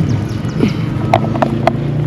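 A motor vehicle's engine running steadily on the road, with three sharp clops in the second half from the hooves of a cart animal.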